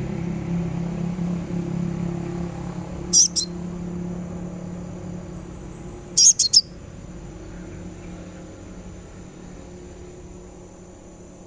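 Sunbird giving short, very high chirps: one about three seconds in and a quick run of three about six seconds in. A steady high-pitched hiss and a low hum that fades out run underneath.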